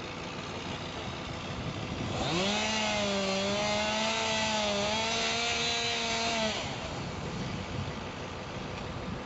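A two-stroke chainsaw running at high revs for about four seconds, its pitch wavering slightly as it works, over a steady background engine drone.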